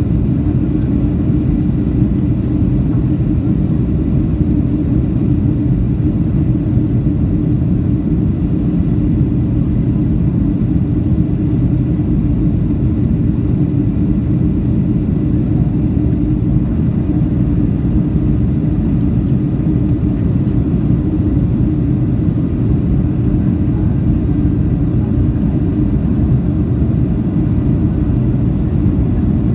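Steady low drone of a Boeing 737-800's engines and rushing air heard inside the passenger cabin, with a constant hum running through it and no change in pitch or level.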